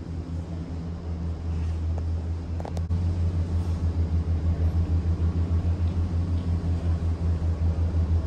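Low rumbling hum of a Skyrail gondola cabin travelling along the cableway, heard from inside the cabin. A click comes a little under three seconds in, after which the rumble grows louder and pulses rapidly, about seven times a second.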